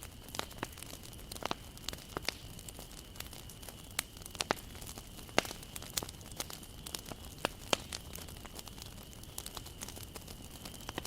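Wood fire crackling, with sharp irregular pops and snaps over a low steady hiss of burning; a faint steady high tone sits underneath.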